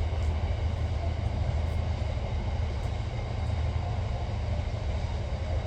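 Train passing close by, a steady heavy rumble of wheels and running gear on the track.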